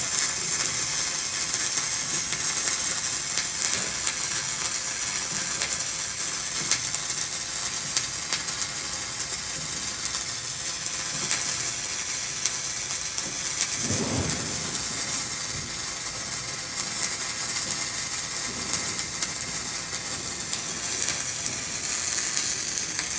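Stick (SMAW) welding arc crackling and hissing steadily, with a constant scatter of fine pops, as a bead is run on a groove-weld practice coupon.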